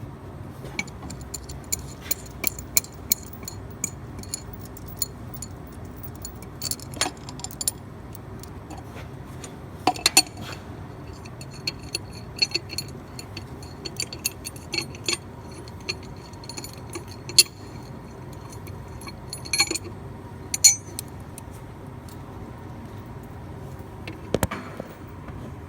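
Steel hand tools and the steel template plate clinking and clicking against each other and the engine's bolts, scattered sharp clinks with a few louder metal knocks, as the welded-on nut and plate are worked loose.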